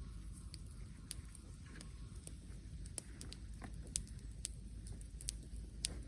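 Scattered light crackles and snaps over a low steady rumble, with a few sharper snaps in the second half.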